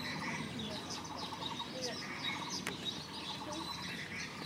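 Small birds chirping and twittering in many short, overlapping calls, with one sharp click about two and a half seconds in.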